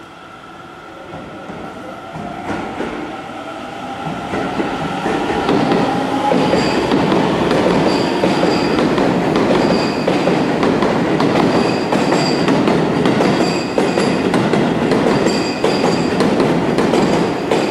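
Seibu 30000-series electric train pulling out and accelerating past, its motor whine rising in pitch over the first few seconds as it grows louder. Then loud wheel-on-rail noise with repeated clacks over rail joints and points, and a high wheel squeal that comes and goes.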